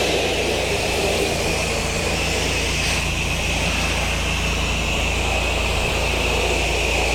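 Pressure washer running and spraying: a steady hiss of the water jet over the constant hum of its engine-driven pump, with a steady high whine.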